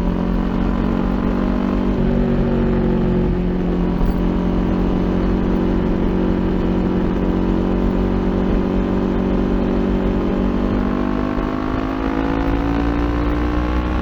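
Kawasaki Ninja 400's parallel-twin engine through an Akrapovic aftermarket exhaust, running at steady revs, then climbing in pitch as it accelerates over the last couple of seconds.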